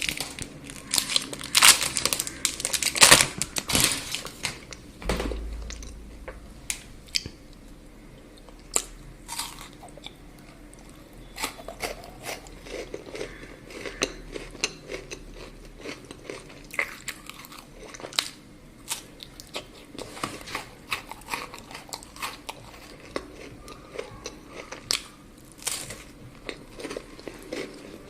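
Close-miked chocolate eating: a burst of loud crunching and crackling in the first few seconds, then quieter chewing with many small crunches and mouth clicks.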